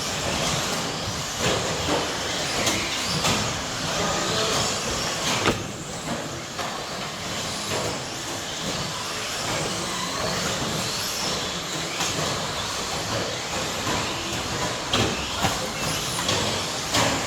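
Pack of 1/10-scale electric stadium trucks with 13.5-turn brushless motors racing: steady motor and tyre noise, broken now and then by sharp clacks of the trucks hitting the track or each other.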